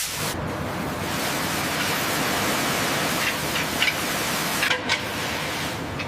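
Steady rushing water noise that starts abruptly, with a few faint knocks between about three and five seconds in.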